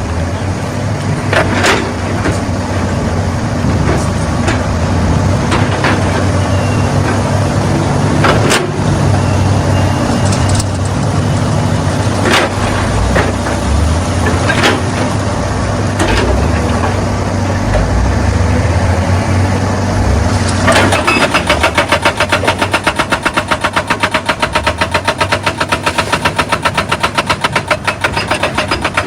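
Excavator diesel engine running steadily, with scattered sharp clanks and knocks. About two-thirds of the way through, a rapid, even hammering starts: the excavator's hydraulic breaker pounding rock.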